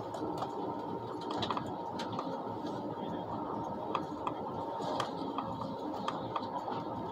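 Cabin noise inside a moving ICE train: a steady running noise with a faint even hum and scattered light clicks and ticks.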